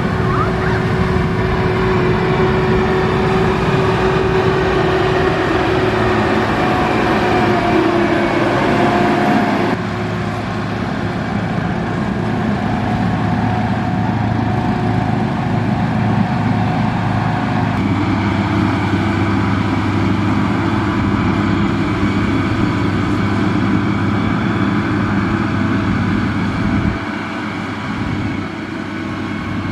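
Heavy diesel construction machinery engines running steadily, with the engine tone changing abruptly about ten seconds in and again a little past halfway, and dropping in level near the end.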